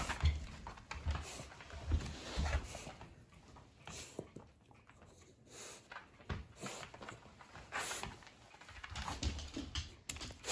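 Shiba Inu greeting excitedly, with irregular scuffles and short noisy sounds, and several soft low thumps in the first few seconds.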